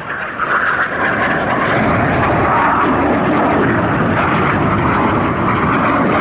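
BAE Hawk T1 jets of the Red Arrows flying past, their Adour turbofans making a loud, steady jet noise that builds up in the first half-second.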